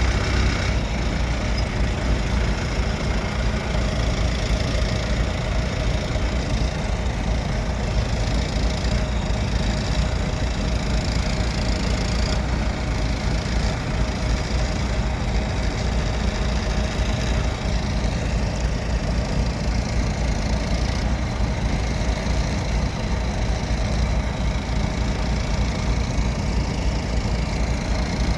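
Tractor engine running steadily, a low continuous drone while it works at pushing hay bales into the trailer.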